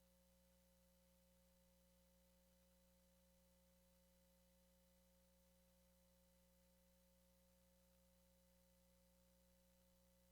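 Near silence: only a faint, unchanging hiss with a steady low hum and a thin held tone.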